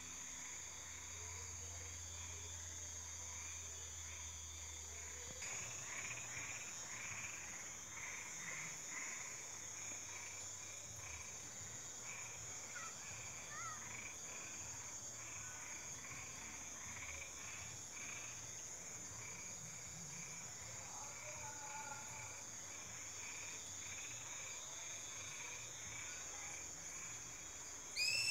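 Night chorus of crickets and frogs: a steady high insect trill, with frogs calling in quick repeated notes from about five seconds in. A louder short call comes right at the end.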